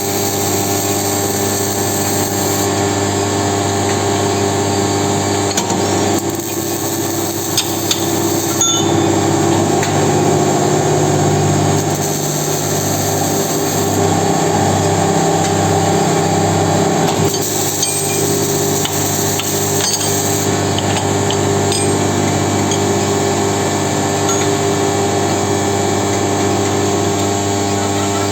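Steady, many-toned electrical hum and whine from a 25 kW induction heating machine at work, with a few sharp clicks and a brief pulsing in the low hum around the middle.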